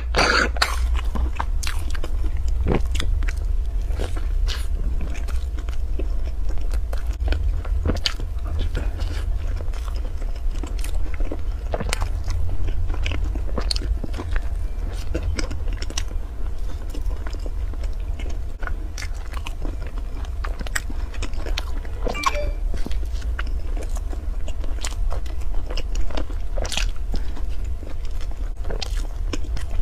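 Close-miked biting and chewing of a soft cream-filled bread roll with a fibrous coating, full of scattered sharp mouth clicks and smacks. A steady low hum runs underneath.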